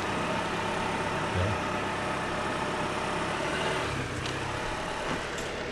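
Toyota RAV4 SUV running steadily at low speed as it creeps over a rough dirt logging road, with a low thump about a second and a half in and another near four seconds.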